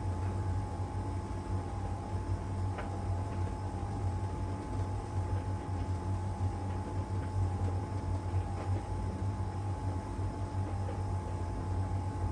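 LG heat pump tumble dryer running in its drying stage: a steady low hum with a steady whine above it. There is a faint tap about three seconds in.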